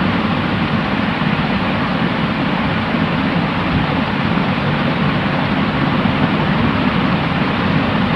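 Steady white-noise hiss for sleep, even and unbroken, with a deep rushing body and no highs above a muffled top.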